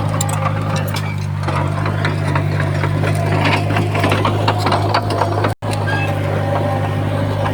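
Heavy diesel engine of earthmoving machinery running steadily, with irregular clanks and rattles over it. The sound drops out for an instant a little past halfway.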